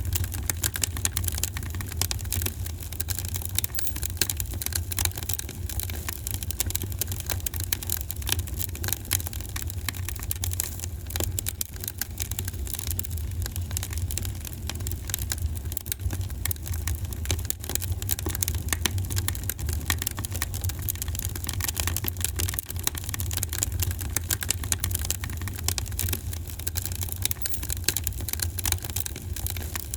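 Wood fire crackling in a fireplace, with a dense, irregular stream of small pops and snaps over a steady low rumble.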